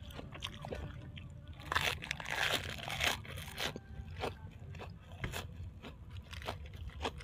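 A person chewing and crunching food close to the microphone: a run of wet, crackly crunches, loudest and densest about two to three and a half seconds in, then slower single crunches.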